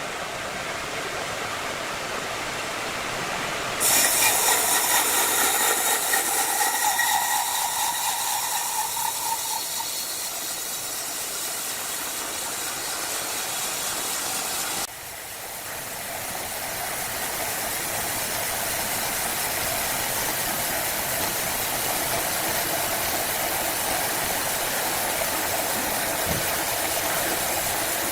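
Wood-cutting saw running through timber: a steady, noisy whir that jumps louder and hissier about four seconds in, with a whining tone for a few seconds. It drops off sharply about fifteen seconds in, then settles back to a steady run.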